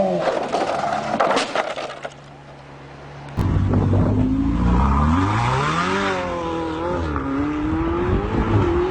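Car crash: several sharp cracks and knocks in the first two seconds. Then, after a sudden cut, a car engine revs, its pitch rising and falling.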